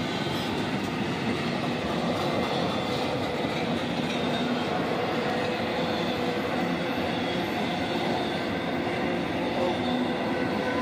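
Intermodal freight train rolling past a grade crossing: a steady, continuous noise of the cars' wheels on the rails, with a faint whine running through it.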